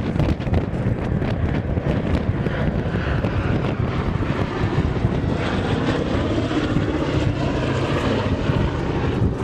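Fixed-wing aircraft engine running loud and steady as the plane flies past, with a faint tone that rises and then falls in the middle.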